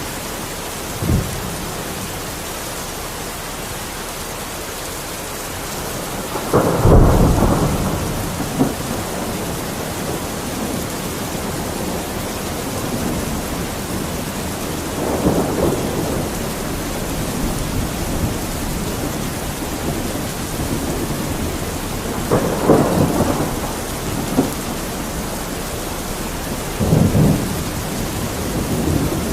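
Steady heavy rain with thunder rumbling several times, the loudest peal about a quarter of the way in and smaller rumbles spaced through the rest.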